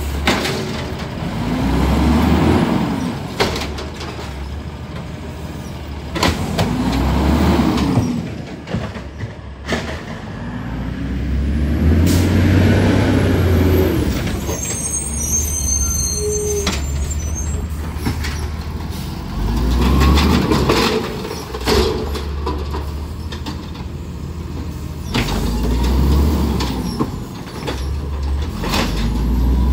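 Garbage truck's diesel engine revving up and falling back again roughly every five to six seconds over a steady low drone, with scattered clanks and knocks.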